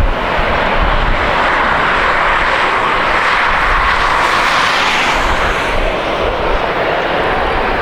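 Jet airliner engines running close by: a loud, steady rushing noise.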